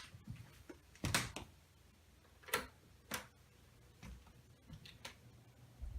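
Galaxy 2150 12-inch oscillating table fan starting up and running on low speed, a faint steady hum, with several sharp clicks and knocks scattered over it.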